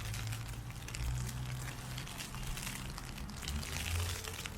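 Ice pellets ticking on an umbrella in a dense, fine crackle, over a low steady rumble.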